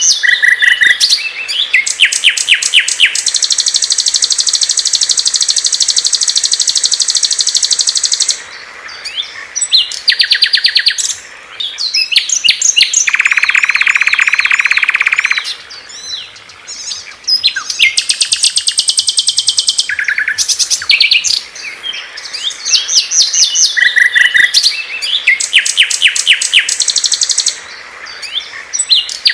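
Small songbirds singing loud, high-pitched songs in a masteran recording, the kind used to tutor cage birds. The songs are fast trills and long buzzy trilled phrases of several seconds each, broken by short repeated chirps, and the same sequence comes round again near the end.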